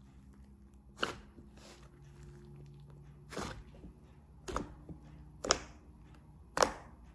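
Five separate sharp knocks on a hard surface, spaced about a second apart, over a faint low steady hum.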